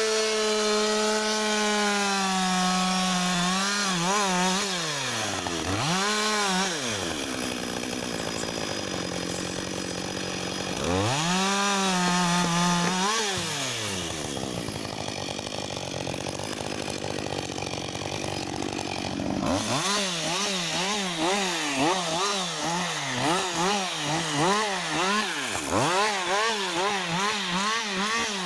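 Husqvarna 562 XP two-stroke chainsaw revved to high speed and held there, dropping back to idle twice. Near the end it is blipped up and down in quick repeated revs.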